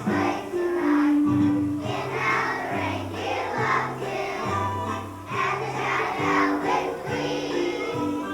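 Children's choir singing a song with instrumental accompaniment, over a bass line that steps between held low notes.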